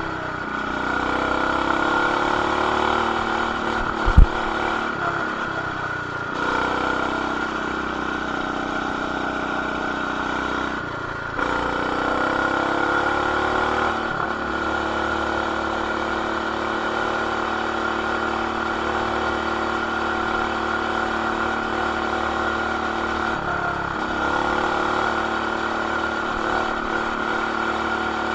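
BT200X mini bike's single-cylinder engine with an aftermarket header and RLV exhaust, running under throttle while ridden. It briefly drops off and revs back up about three times, and there is one sharp knock about four seconds in. It is heard through an action camera in a plastic case, which muffles it.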